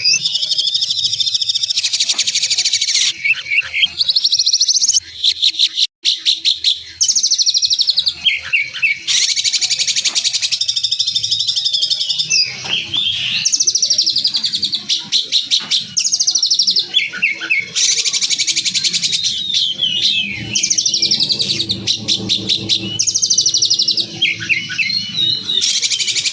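A songbird's loud, harsh, rapid song: high, dense trills and sharp stuttering notes, delivered in phrases of a second or two that repeat every few seconds.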